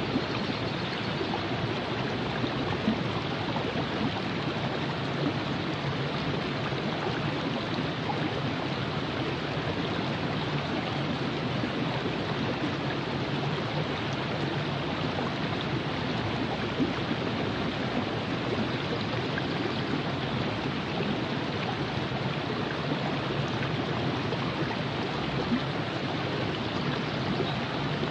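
Virgin River flowing over rocks: a steady rush and babble of running water, with small splashes here and there.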